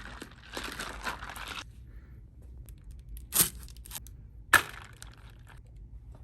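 Plastic food packaging rustling and crinkling for about a second and a half, then two sharp snaps about a second apart.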